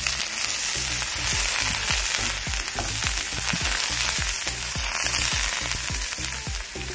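Diced eggplant, potato, carrot and onion sizzling steadily as they sauté in a hot nonstick frying pan, stirred with a spatula.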